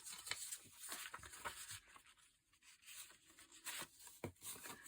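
Paper being handled by hand: faint rustling and scraping in short, irregular strokes.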